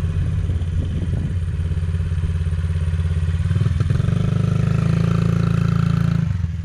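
Motorcycle engine running at low revs, then opened up about four seconds in and held at a higher, steady pitch for about two seconds before the throttle closes and it drops back near the end.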